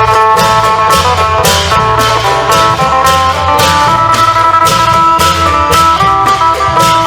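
Isan long-drum band music: a phin, the Isan plucked lute, plays a running melody over low bass notes, with a cymbal and drum stroke about once a second.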